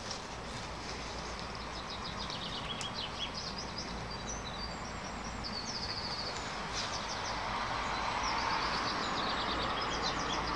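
Small birds chirping and trilling in fast repeated note series over a steady background rush, which grows slightly louder in the second half.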